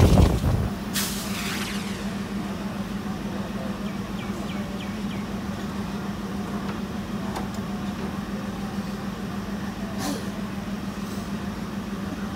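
Passenger train standing at a station: a steady low hum, with a short hiss about a second in and a faint click near the end. A loud running rumble fades out in the first half second.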